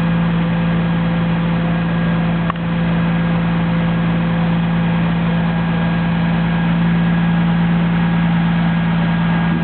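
An engine running steadily at one constant pitch, a loud even hum, with a brief dip about two and a half seconds in.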